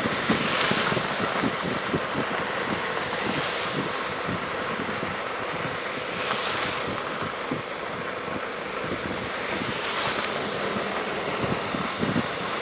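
Steady city traffic noise on a wet street, with the hiss of a passing car swelling about every three seconds.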